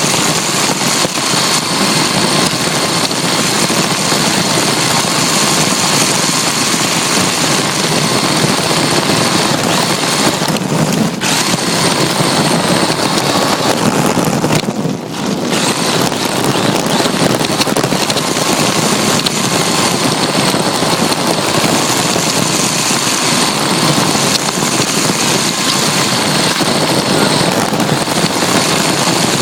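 Electric RC drift car's motor and drivetrain whining steadily, with gear rattle and tyre noise, heard from a phone strapped to the bare chassis. The sound eases briefly about a third of the way in and drops more deeply about halfway, as the throttle is let off.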